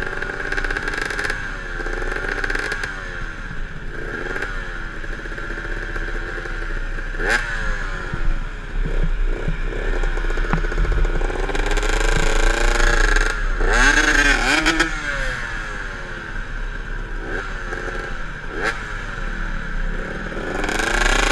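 KTM enduro dirt bike engine revving up and falling back over and over as it is ridden along a trail, with a few sharp knocks and clatter from the bike over rough ground.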